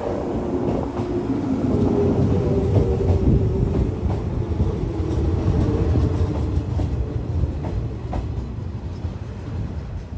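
Shinano Railway 115-series electric train running in along the station platform, its wheels rumbling and clattering over the rails. The sound eases off over the last couple of seconds as it slows.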